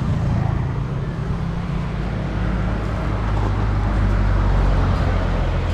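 A motor vehicle's engine runs steadily with road noise, a continuous low hum.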